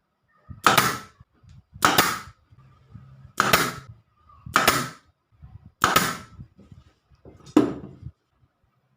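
Six sharp strikes in the wood workshop, one about every second and a quarter, each with a short ring and the last one the deepest.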